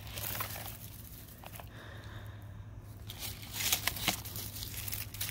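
Dry garlic stalks and leaves rustling and crackling, with soil crumbling, as garlic bulbs are pulled up and handled; irregular, with a louder cluster of crackles past the middle.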